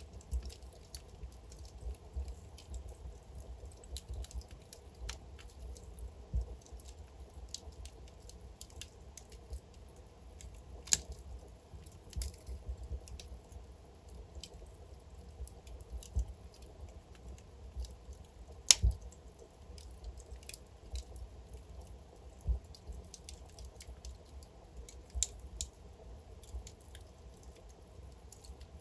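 Wood fire burning in a fireplace: a low steady rumble of the flames with irregular crackles and sharp pops from the burning logs, a few louder snaps standing out.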